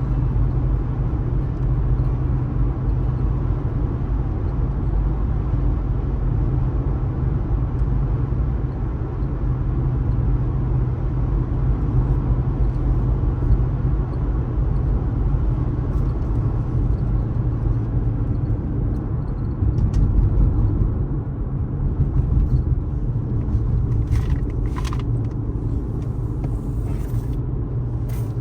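Car driving at steady speed: a continuous low rumble of engine and tyre noise, with a few brief clicks near the end.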